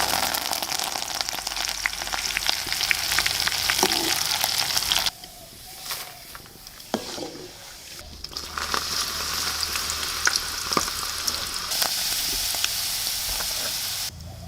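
Food frying and sizzling, a dense crackling hiss that drops away for about three seconds around the middle, where a few clicks and knocks are heard, then resumes.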